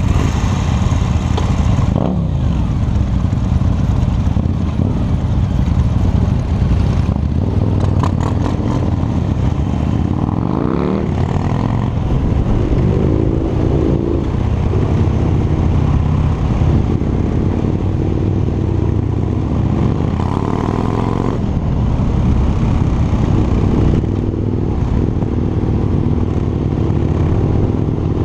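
Harley-Davidson V-twin motorcycle engine running under way. Its pitch rises and falls several times in the middle as the throttle is opened and closed.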